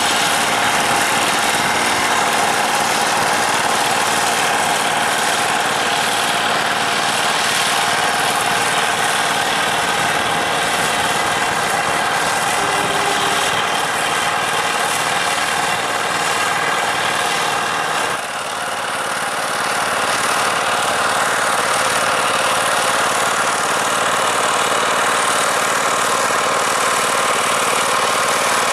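Tractor diesel engine running steadily under work. Its sound dips briefly and changes character about eighteen seconds in.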